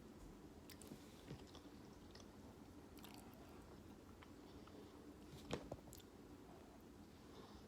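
Faint close-up chewing of beef ramen noodles, with scattered soft mouth clicks; the sharpest click comes about five and a half seconds in.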